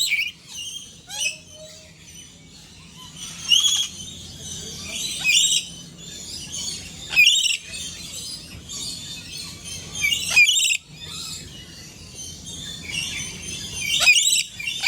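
Birds calling: a series of loud, sharp, high calls every two to four seconds, with quieter chirping in between.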